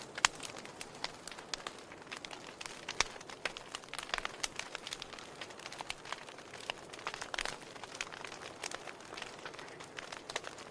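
Wood campfire crackling: a steady run of irregular sharp snaps and pops over a soft hiss, with a louder pop just after the start.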